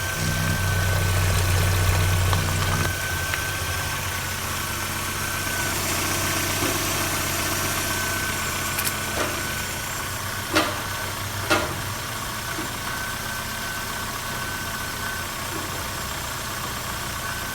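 VW Passat B4's 2.0-litre AGG four-cylinder petrol engine idling steadily, with a steady high whine over the engine hum and a louder stretch in the first few seconds. Two sharp clicks come about a second apart near the middle.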